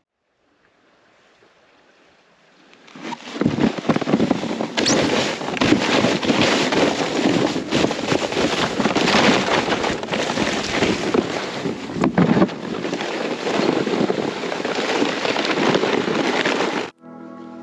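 Wind rushing over the microphone, with water sounds from the kayak on the lake. It comes in loud about three seconds in after near silence and cuts off abruptly near the end.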